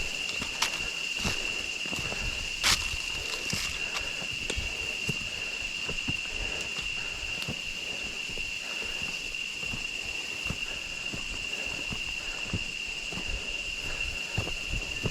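Irregular footsteps along a hillside trail, with a louder knock about three seconds in, over a steady high-pitched drone that runs throughout.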